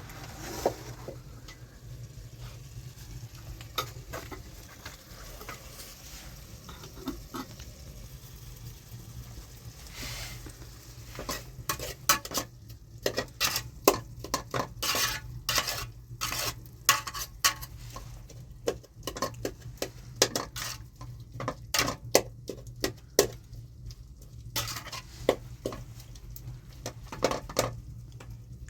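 Utensils clinking, knocking and scraping against pots and dishes, with a few scattered knocks at first and then a quick, irregular run of clicks through the second half, over a steady low hum.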